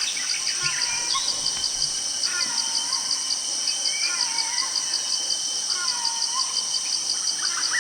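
Rainforest ambience: a steady high insect chorus with a fast, even pulsing trill. A bird repeats a short swooping call about every two seconds.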